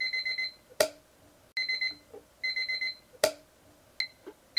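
Electronic alarm clock beeping: groups of rapid, high-pitched beeps repeating over and over. Three sharp clicks fall between the groups and are the loudest sounds.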